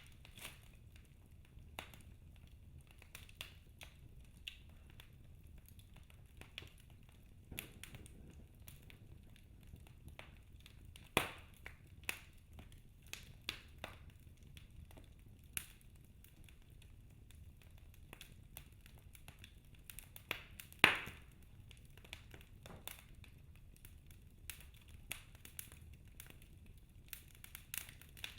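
Wood fire crackling in a fireplace: scattered snaps and pops over a faint low rumble, with two louder pops about a third and two-thirds of the way through.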